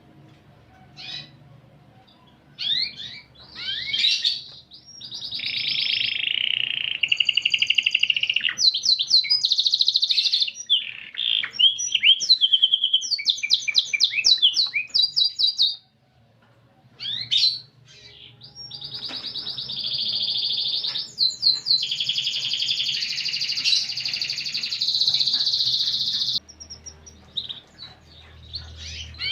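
Domestic canary singing a varied song of fast rolling trills and quick chirped notes, breaking off briefly about halfway through, then holding one long rolled trill for several seconds.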